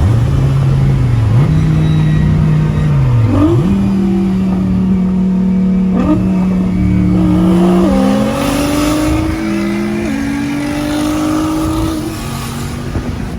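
Twin-turbo Dodge Viper V10 running hard at high speed. Its engine note holds steady for a few seconds at a time, then drops and climbs at several points as the throttle and gears change, under steady road and wind rumble.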